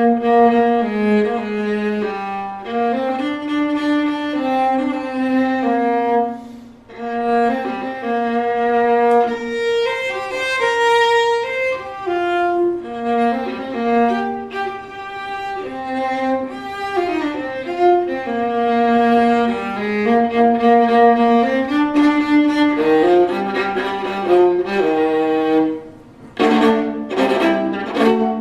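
Bowed string instrument, fiddle-like, playing a waltz melody with some double-stopped notes, and a few sharp accented strokes near the end.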